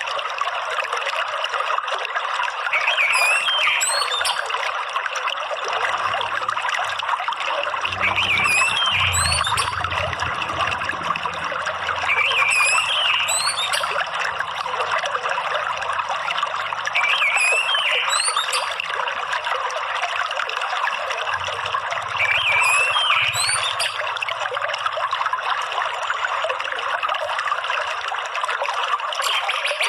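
Steady rushing water like a stream, with short high warbling song phrases of an orange-headed thrush (anis merah) recurring about every four to five seconds over it.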